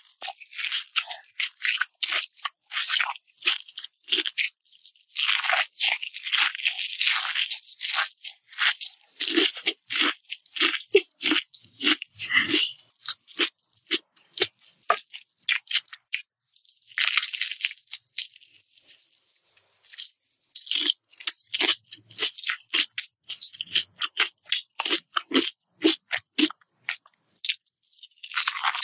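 Close-miked crunching and chewing of Indonesian savory martabak, a fried pancake stuffed with duck egg: bites into the crisp fried crust, then a dense run of crackling chews.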